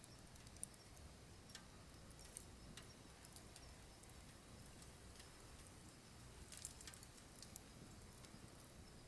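Wood fire in a wood-burning stove crackling faintly, with sharp irregular pops and ticks over a low steady rumble of flame, the pops bunching together about two-thirds of the way through.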